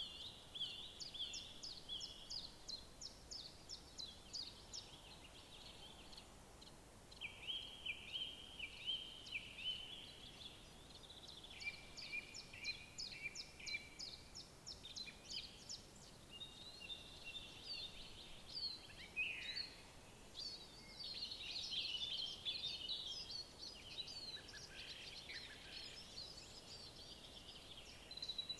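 Songbirds singing: several overlapping songs of quick, high repeated notes and trills, growing into a busier tangle of calls in the second half.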